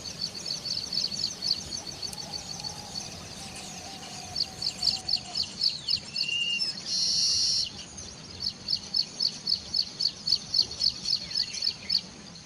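Baya weaver birds calling: a rapid run of high, short chirps, about four a second, broken about seven seconds in by one loud buzzy wheeze lasting under a second.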